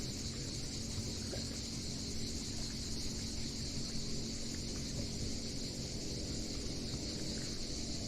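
Insects singing in a continuous high, steady chorus, with a low steady rumble underneath.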